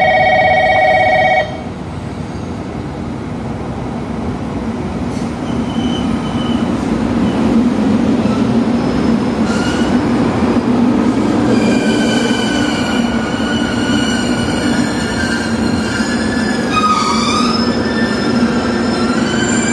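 A JR Kyushu 883 series electric train pulls into the platform, its running and rolling noise building, and from about halfway a high-pitched brake squeal sets in as it slows, with a short pitch glide near the end. A steady ringing tone stops about a second and a half in.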